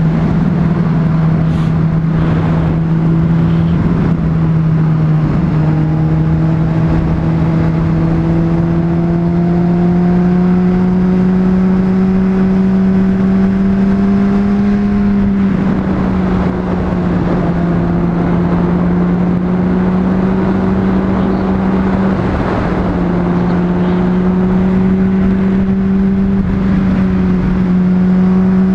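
Honda CBR600RR inline-four sport bike engine pulling steadily at road speed, its pitch climbing slowly and dropping as it shifts up about halfway through and again about three-quarters of the way in, with a haze of wind noise.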